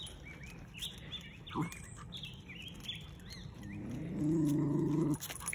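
Wild birds chirping, a run of short high calls through the first three seconds or so. About four seconds in comes a louder, low, steady pitched sound lasting about a second and a half, which is the loudest thing heard.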